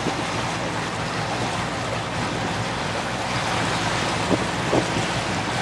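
Boat engine running steadily as the boat moves along, with wind buffeting the microphone and water rushing past the hull.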